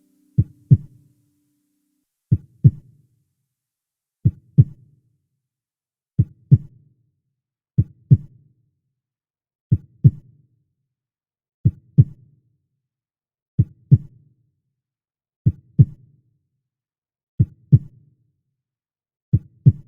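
Heartbeat sound: a slow, steady lub-dub, each beat a pair of short low thumps, repeating about every two seconds, eleven times. A held musical note fades out during the first two seconds.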